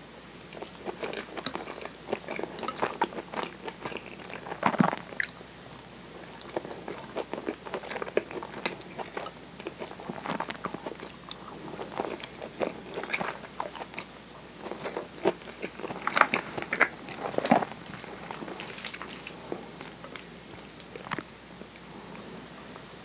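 Close-miked person chewing and biting okonomiyaki, a soft savoury pancake with pork and cabbage: irregular mouth clicks and smacks throughout, with a few louder ones about five seconds in and again around sixteen to eighteen seconds in.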